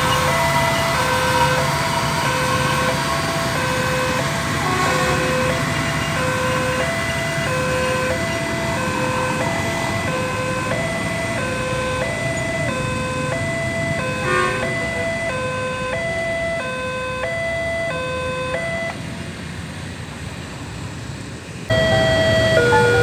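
Railway level-crossing warning alarm sounding a repeated two-tone chime, the two notes alternating about twice a second over a steady rumble. It stops a few seconds before the end, then starts again abruptly and louder.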